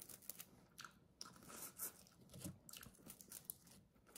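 A person chewing a cold, cooked northern prawn: faint, irregular crunching.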